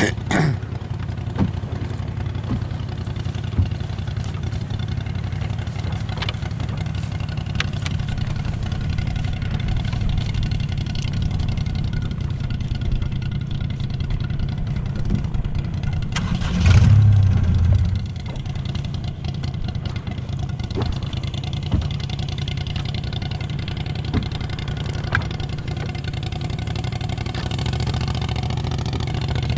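Fishing boat's engine running steadily, with a brief louder surge a little past the middle.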